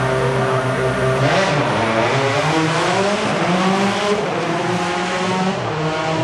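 Rally car engine revving hard through its gears. The pitch climbs and then drops sharply at gear changes, about a second in and again about four seconds in.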